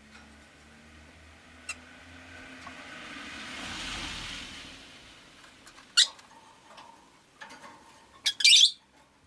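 Rosy-faced lovebirds giving short, sharp, high squawks: one about six seconds in and a loud burst of several near the end. Before them, a passing vehicle's noise swells and fades.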